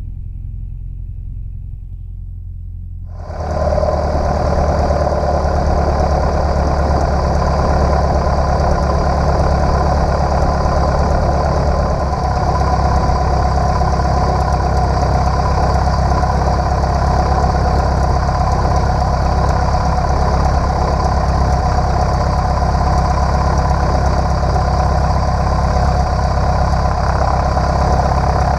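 Cessna 150's engine and propeller droning steadily: only a low hum for about three seconds, then abruptly much louder, with a full steady engine drone and rushing air noise.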